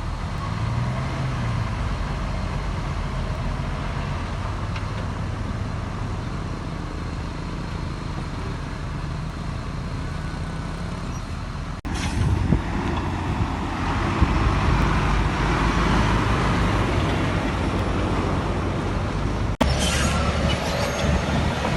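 Heavy diesel engines of earthmoving machinery running steadily under load. The sound changes abruptly twice, about twelve seconds in and again near the end, each time to a louder, rougher stretch.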